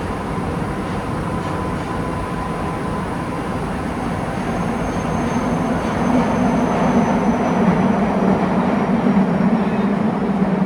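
Running noise inside a Nagoya Municipal Subway Meijo Line 2000 series car with a Hitachi GTO inverter drive, as the train travels through the tunnel. The noise is steady, with faint thin tones over it, and it grows louder about halfway through.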